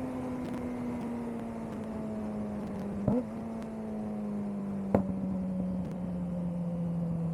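Suzuki GSX-R600 inline-four engine with an aftermarket CS Racing exhaust, running steadily while riding, its pitch drifting slowly lower. Two brief sharp blips come about three and five seconds in.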